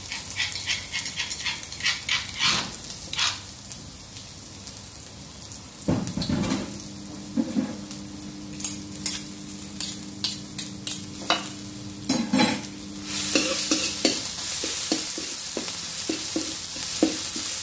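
Pounded sam kler paste (garlic, coriander root and pepper) sizzling in hot oil in a wok, with clicks and scrapes of a metal spatula stirring it. The sizzle grows louder over the last few seconds.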